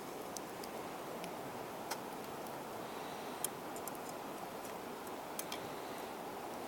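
Campfire crackling: scattered sharp, irregular pops over a steady low rush.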